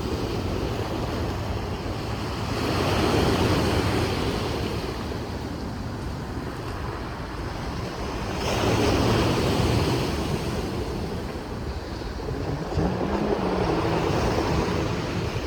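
Sea waves washing on the shore, swelling and fading three times about five to six seconds apart, with wind rumbling on the microphone.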